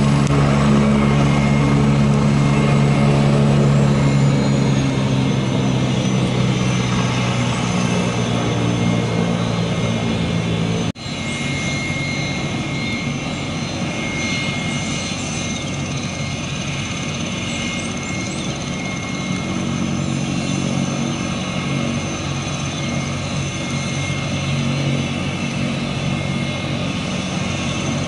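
AgustaWestland AW119 helicopter running close by: a steady low rotor tone with a high turbine whine. About 11 seconds in the sound drops out for an instant, and afterwards the low tone is weaker and the whine stands out more.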